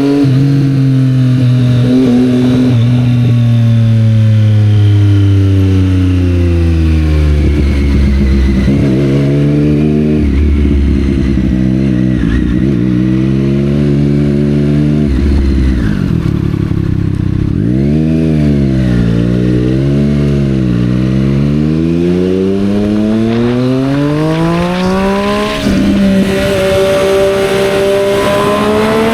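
Triumph Street Triple 765 R's three-cylinder engine through a Yoshimura aftermarket exhaust, ridden in traffic. The revs fall as the bike slows and run low for a while, then several short throttle blips follow. The engine then pulls up steadily through the revs, with a gear change near the end.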